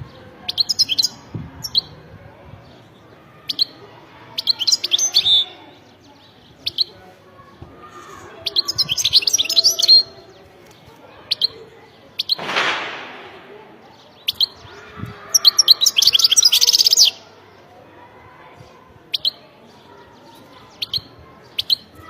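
Caged European goldfinch singing: bursts of fast, high twittering song phrases a second or two long, with single short call notes between them. A brief rush of noise about twelve seconds in.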